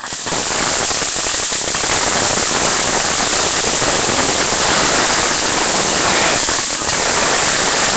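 Fireworks crackling in a dense, continuous hiss of tiny pops, starting suddenly and holding steady.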